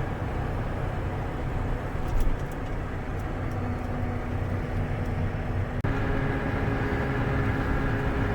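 John Deere 7290R tractor's diesel engine running steadily under a low rumble. About six seconds in, the sound briefly cuts out and comes back with a slightly different engine tone.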